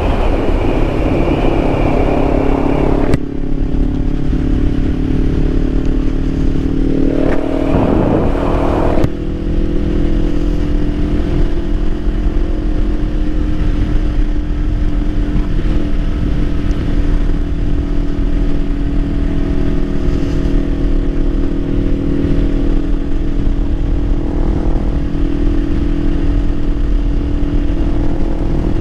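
2024 Kawasaki Ninja 500's 451 cc parallel-twin engine running steadily at cruising speed. Heavy wind noise on the microphone cuts off suddenly about three seconds in, and a brief surge of noise with a change in pitch comes around eight seconds in.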